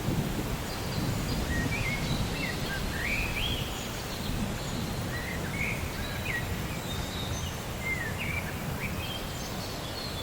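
Birds calling with short rising and falling chirps and whistles, scattered through most of the stretch, over a steady low rumble from a rain-and-thunder soundscape.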